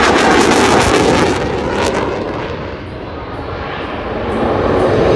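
Military jet engine roaring overhead with a harsh crackle. It fades a little around the middle, then swells again as the jet comes back around.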